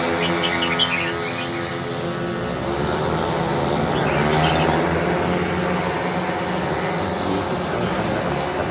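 Racing vehicle engines running hard, their pitch rising and falling as they rev and pass, with a few bird chirps about half a second in.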